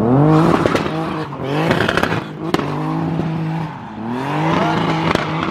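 Car engine revving hard as it accelerates, its pitch climbing three times with a drop between each climb, like shifts through the gears.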